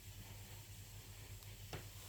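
1981 D.E.M.C 36-inch ceiling fan running with a faint, steady low hum, and a single click near the end.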